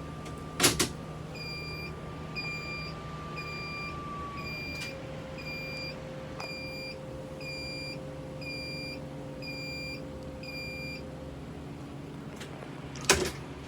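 A vehicle door slams shut, then a dashboard warning chime beeps about once a second for around ten seconds over a low steady hum, and a second door slam comes near the end.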